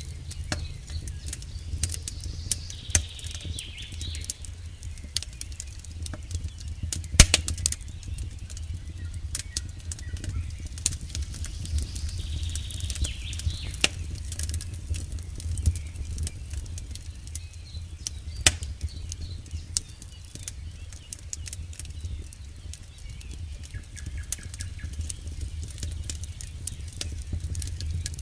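Campfire burning, with a steady low rumble of flames and scattered crackles of burning wood. Two louder sharp pops stand out, about a quarter of the way in and again about two-thirds of the way through.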